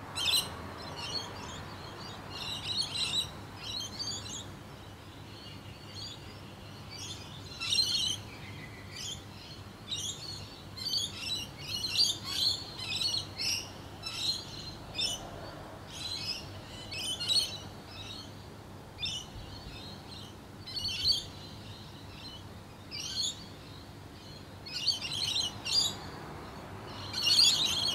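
Small birds chirping: short clusters of high chirps every second or two, over a faint steady background noise.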